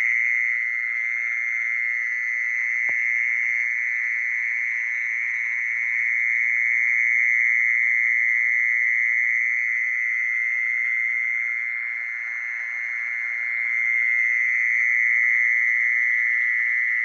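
Steady chorus of insects, a shrill continuous drone held on one high pitch that slowly swells and eases without a break.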